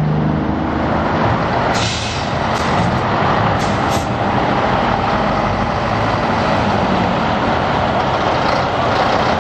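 Diesel engines of Scania trucks running, a steady, loud mechanical rumble. Short hisses of air brakes come about two seconds in and again around four seconds in.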